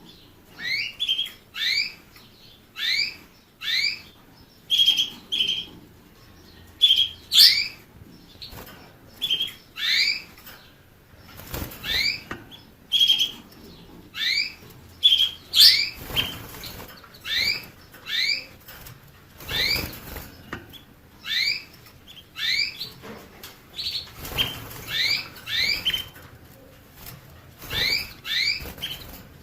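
A finch calling over and over: short rising chirps, often in quick pairs, about one or two a second. Brief rustling bursts come in now and then.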